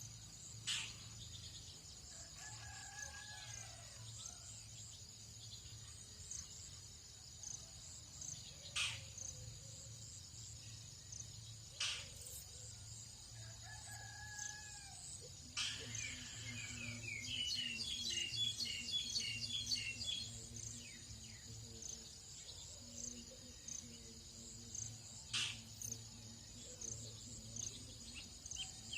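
Dawn chorus: a rooster crowing twice in the distance, over a steady high buzz of insects. Other birds call around it, with a quick run of falling notes in the middle and sharp single chips every few seconds.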